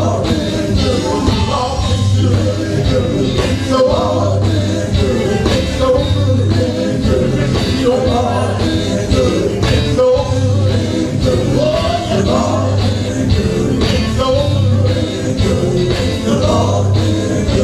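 Live gospel music: a band playing over a repeating bass line, with singing.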